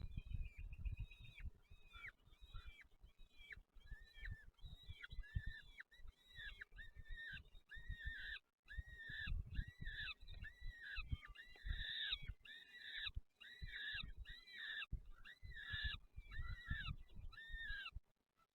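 Nestling birds chirping insistently to beg for food: short arched chirps, about two a second and overlapping, that cut off abruptly near the end. Low thumps and rustling from movement in the nest lie underneath.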